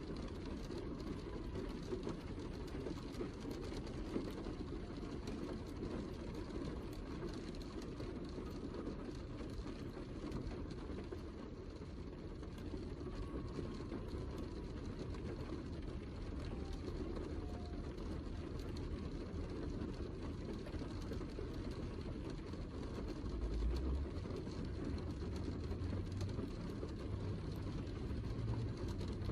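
Steady heavy rain, a dense even wash of noise with a deep rumble underneath that grows a little stronger near the end.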